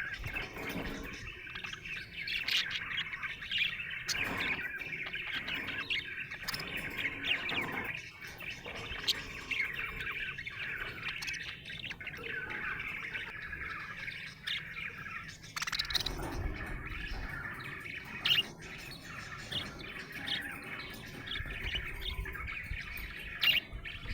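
Budgerigar chirping and warbling continuously, a busy stream of short chirps and chatter.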